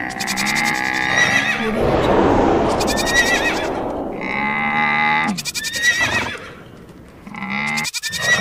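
Stampede sound effects of animal calls with a wavering pitch, heard four times about two and a half seconds apart, with a rough noisy stretch between the first two.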